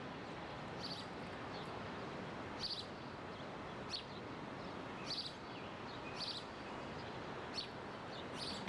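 A bird chirping, short high calls repeated roughly once a second, over a steady outdoor background hiss.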